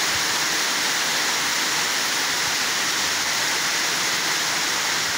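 Rain falling steadily onto standing floodwater, an even hiss that does not let up.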